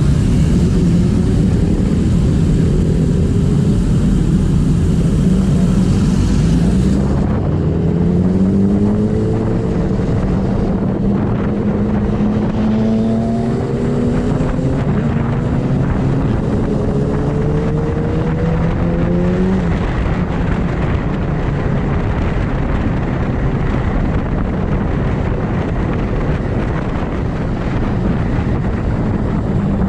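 Superbike engines running under heavy rushing noise. Through the middle, one engine's pitch climbs several times in steps as it accelerates up through the gears, then settles to a steady run.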